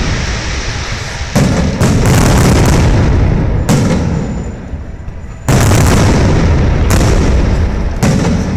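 Aerial fireworks shells bursting in a steady run of loud booms, a new bang every second or two, each trailing off into a low rumble.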